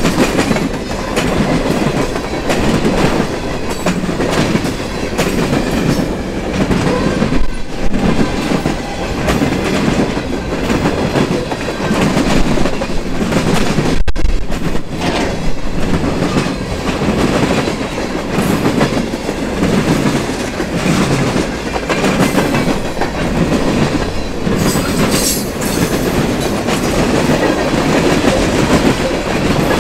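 Freight train cars rolling past close by, the steel wheels on the rails giving a repeating knocking rhythm that swells every second or two as each car goes by.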